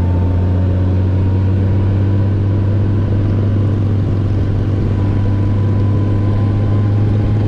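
A 2018 Honda Gold Wing's flat-six engine runs at a steady speed while under way, a constant low hum.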